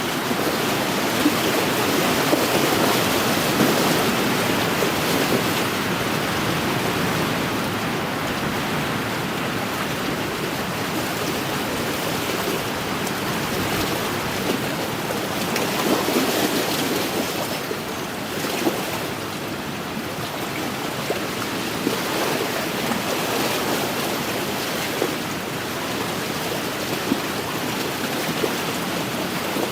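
Wind-driven waves lapping and splashing against a lakeshore, a steady rush of water that swells and eases, with small splashes here and there.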